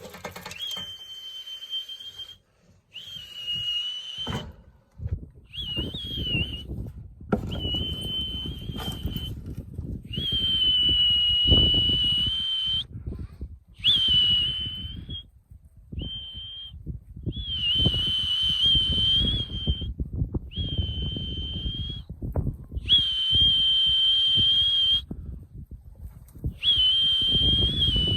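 A whistle blown in about eleven long, steady, high blasts with short pauses between: the call that brings young racing pigeons in to the loft to feed. A low rumbling noise sits underneath.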